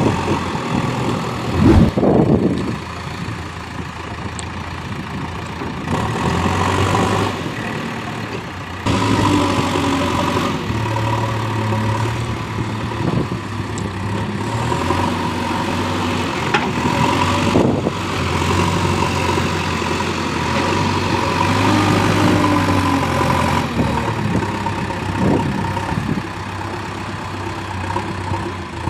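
Heavy diesel engine of a working machine running, its pitch and load shifting every few seconds, with a few sharp knocks, the loudest about two seconds in.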